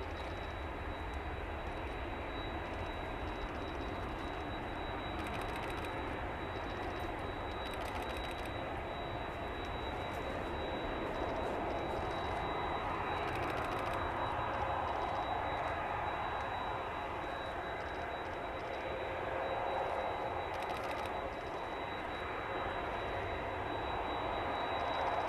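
Jet engines of a Boeing 787-8 airliner (Rolls-Royce Trent 1000s) running, a steady rushing engine noise that slowly grows louder.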